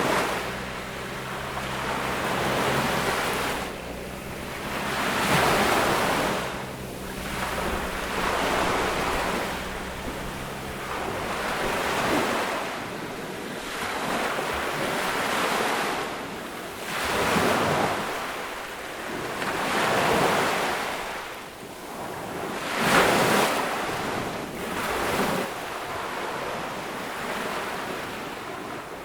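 Ocean waves breaking and washing up on a beach, a swelling surge of surf every two to three seconds. A faint low hum lies underneath and stops about twelve seconds in.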